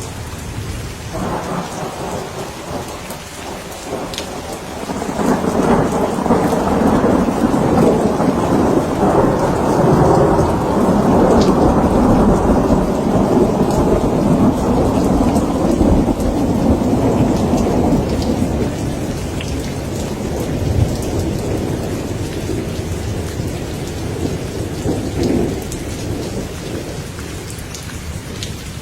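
Steady heavy rain with a long rolling thunder rumble that builds about five seconds in, stays loud for over ten seconds and slowly fades, with a smaller rumble near the end.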